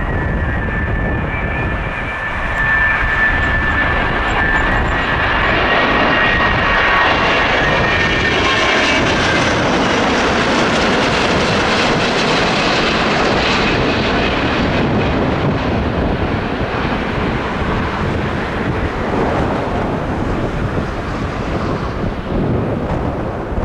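Airbus A330-900 jet airliner with Rolls-Royce Trent 7000 engines passing low on its landing approach. A high engine whine is heard at first, then the broad jet noise swells through the middle and slowly fades away, with gusty wind on the microphone.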